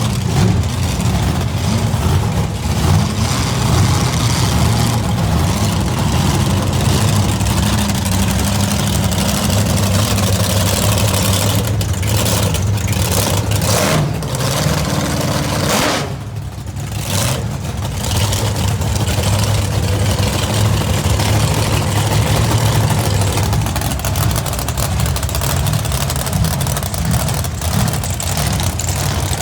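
Monster truck engine running loudly and steadily, with a brief drop in level about sixteen seconds in.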